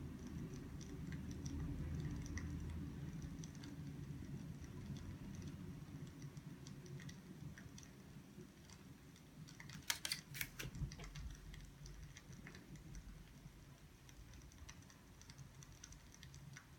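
Faint crackling of a wood fire: a low steady rumble with scattered small pops. About ten seconds in comes a quick cluster of louder clicks.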